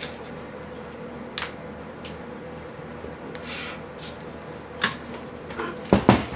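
Scattered clicks, knocks and rubbing from handling an old wire recorder on a workbench, with two sharp knocks about six seconds in, over a faint steady hum.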